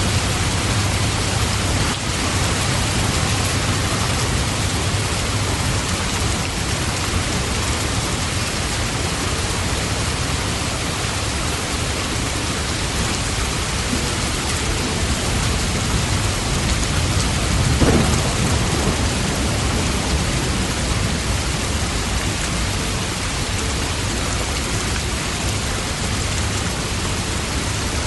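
Steady rain falling, with a low rumble of thunder that is strongest at the start. A single brief thump comes about two-thirds of the way in.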